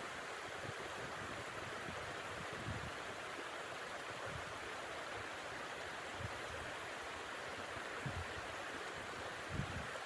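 Steady rushing wind through the forest in a snowstorm, with a few soft low thumps scattered through it.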